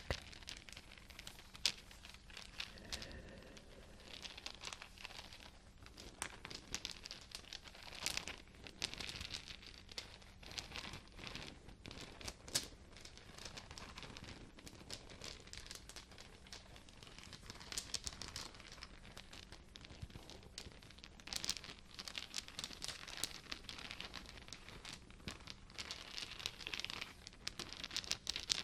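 Wooden beads and small wooden cubes knocking against each other, with irregular clicking and clacking all through and a rustle of handling in between.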